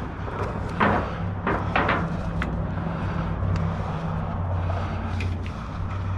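A vehicle engine idling with a steady low hum, with a few sharp knocks and clatters about a second in as scrap and a tie-down are handled on the load.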